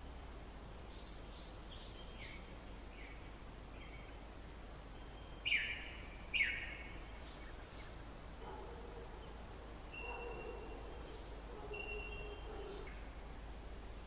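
Birds calling in bushland: a few short downward-slurred calls, then two louder down-slurred calls about halfway through, followed by some held, steady notes over faint background hiss.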